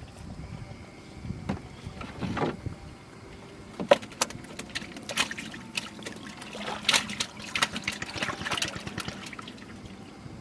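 Water splashing and trickling with irregular knocks and clatter on a small fishing boat, one sharp knock about four seconds in.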